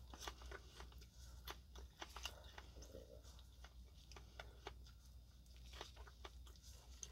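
Faint close-up chewing: a person eating with many small, irregular crunches and mouth clicks.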